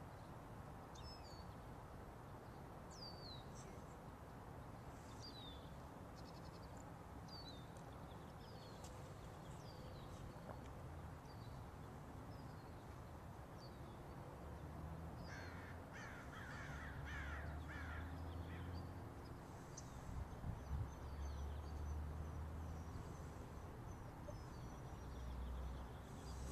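Faint outdoor birdsong, short high chirps and whistles scattered throughout, with a run of louder, quickly repeated calls about two-thirds of the way through. A low rumble comes and goes in the second half.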